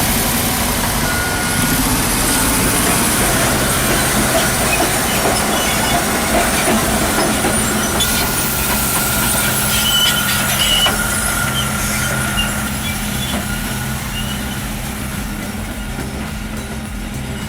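Caterpillar D11R bulldozer working: its large V8 diesel engine runs steadily along with machine and track noise, and a thin steady whine comes in for a few seconds in the middle.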